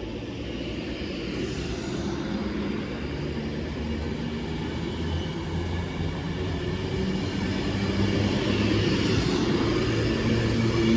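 Electric passenger train running through the station: a steady low motor hum with rail and wheel noise, growing gradually louder.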